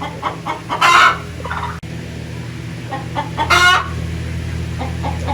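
Poultry calling: two loud, short calls about a second in and again at three and a half seconds, with softer clucks between them.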